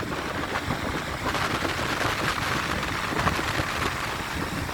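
Stormy sea: heavy surf breaking in a dense, steady wash of noise.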